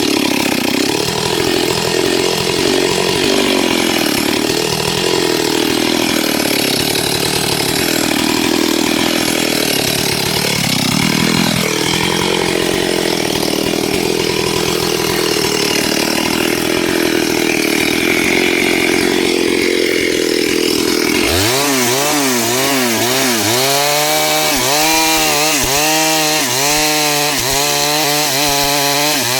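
A STIHL 72cc two-stroke chainsaw cutting into wood under load, running loud and steady. About two-thirds of the way in the sound changes abruptly, and the engine note then rises and falls over and over as the saw bogs in the cut and picks up again.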